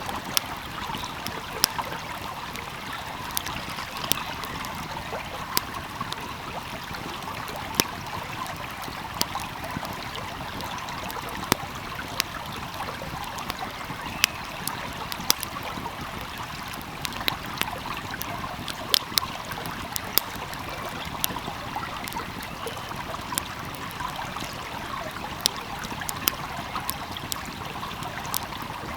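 Wood fire crackling with frequent, irregular sharp pops over the steady rush of a calmly flowing stream.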